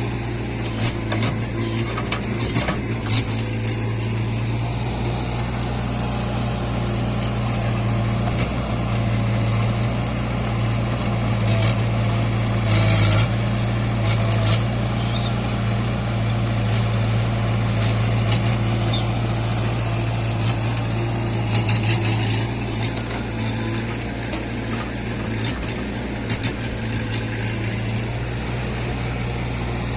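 Diesel engine of working machinery running steadily, with short noisy clatters about 13 and 22 seconds in.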